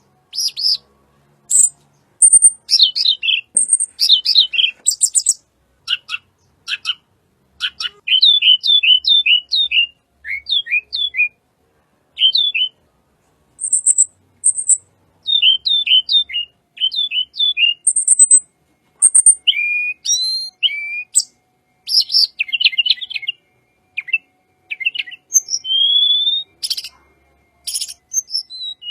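Tledekan gunung (sulingan gunung) songbird singing a long, varied song. It strings together clear whistled notes, quick series of short falling chirps and thin high notes.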